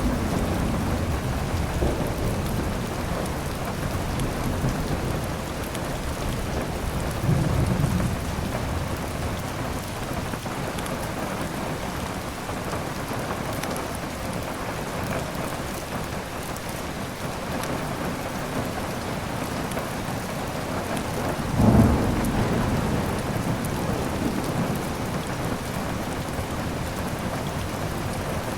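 Steady heavy rain with thunder rumbling low in the background, and two stronger thunder rolls: one about seven seconds in and a louder one a little after twenty seconds.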